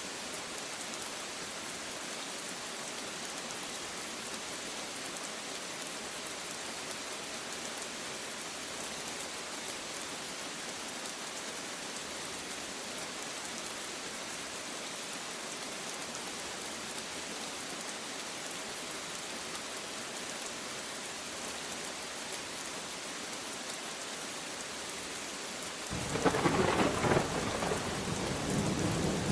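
Steady rain falling, then a crack of thunder near the end that rumbles on.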